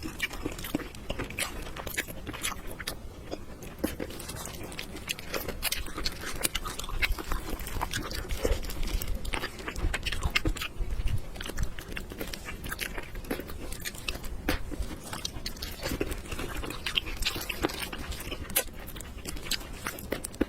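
A person chewing food with many quick wet clicks and smacks, steady and irregular throughout.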